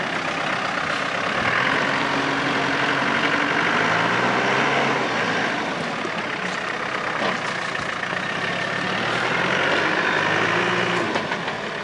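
Land Rover Defender's diesel engine working under load as the 4x4 crawls over a rock ledge, its revs rising and falling twice.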